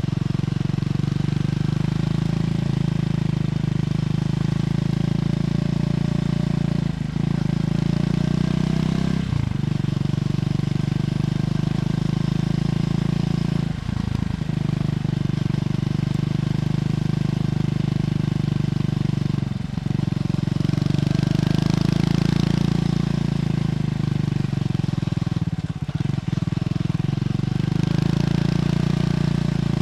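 Triumph Scrambler 400X single-cylinder engine running on the move through its stock exhaust. The steady engine note dips briefly about five times, and a stretch about two-thirds of the way through is louder, with more rushing hiss.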